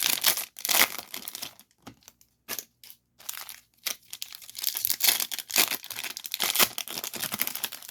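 Trading card pack wrapper crinkling and tearing as a pack is ripped open and the cards are handled: dense crackling, a sparser stretch of separate clicks about two to three seconds in, then more crinkling.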